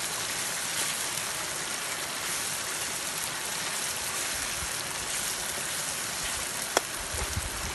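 Steady rushing of flowing water, like a stream, with one sharp click about seven seconds in.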